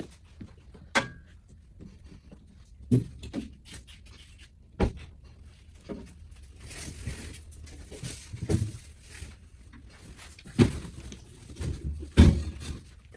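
Irregular knocks and thuds of metal and plastic parts and tools being handled while truck front-end panels are refitted, about six louder ones spread through, with a stretch of scraping and rustling in the middle.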